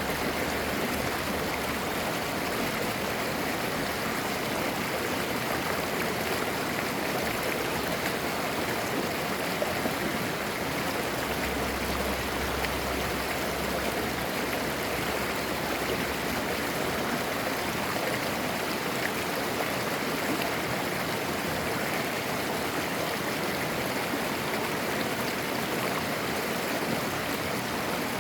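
Mountain stream flowing over rocks, a steady babbling and gurgling of clear water.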